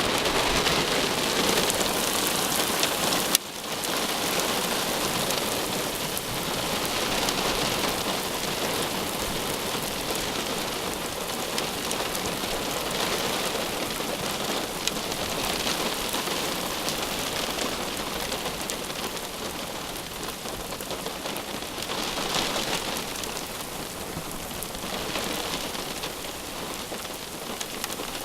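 Heavy rain falling steadily, with a sharp click about three seconds in.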